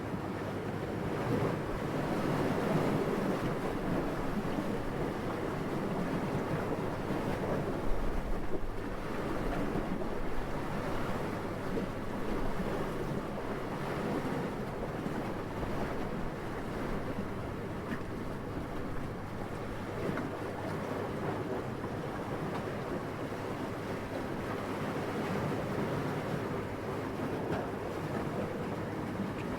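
Steady gentle wind, an even soft rushing with no other sounds in it, and one brief low rumble about eight seconds in.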